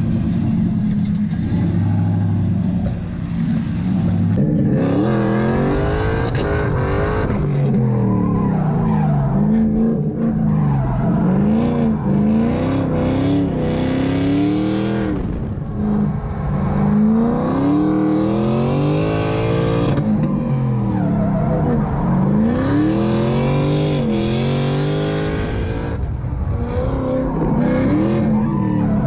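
Drift car engines revving hard, the pitch climbing and dropping again and again as the cars are driven sideways, with tyres squealing.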